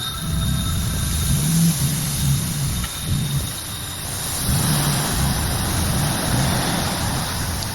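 Tractor engine running and working, its low note rising and falling unevenly. A broad hiss comes up about halfway through.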